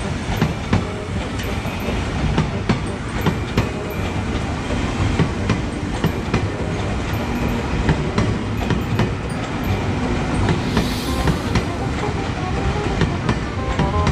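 Ex-Tokyu 8000-series KRL electric commuter train passing close by: a steady rumble with many irregular clacks of the wheels over the rail joints.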